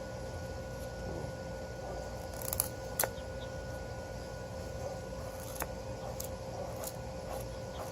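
Knife blade shaving curls down a stick of wood to make a feather stick: about six short scraping strokes at uneven intervals, the sharpest about three seconds in, over a steady faint background hum.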